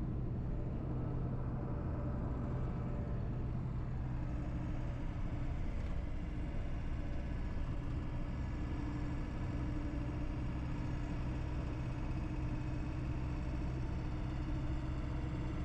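Steady drone of a pickup truck on the move, with engine hum and road noise holding an even pitch and level throughout.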